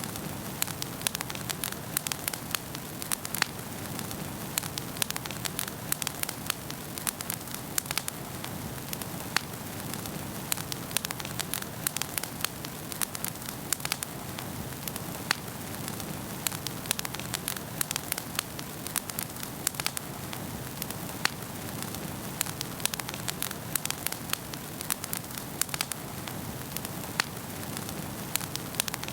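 Wood fire burning in a fireplace: irregular sharp crackles and pops over a steady low rush of flames.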